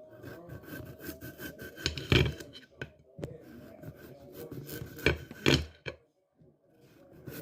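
Knife scraping and cutting through potatoes on a cutting board: a steady rasping with a few sharp knocks, one about two seconds in and two around five seconds.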